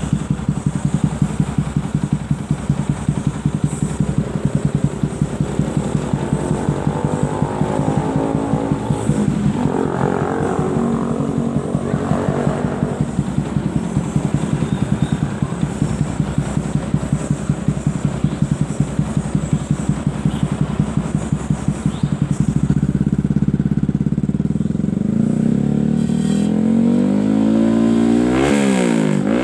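Yamaha R15 V3's single-cylinder engine running through a CLD Monster under-tail twin-silencer racing exhaust: idling with an even pulsing beat, revved lightly a few times about ten seconds in. From about two-thirds of the way the revs rise and are held, slowly climbing, with a quick rev blip near the end.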